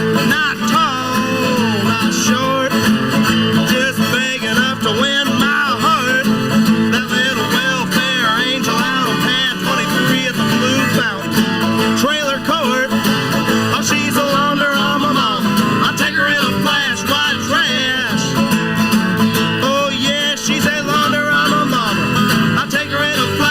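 Live acoustic band playing a country-flavoured song: strummed acoustic guitars with a singing voice.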